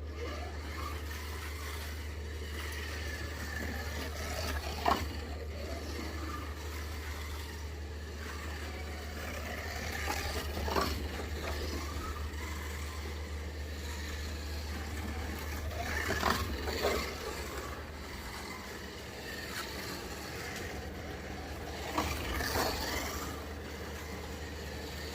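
1:24-scale slot car with a Cox chassis and electric can motor running laps on a slot-car track: the motor's whine and the gear and pickup-braid noise swell and fall as the car passes close by about every six seconds, over a steady low hum.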